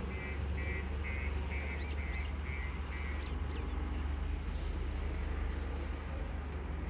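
Heavy diesel machinery engine running steadily, with a reversing alarm beeping about twice a second until about three seconds in. A few bird chirps are heard over it.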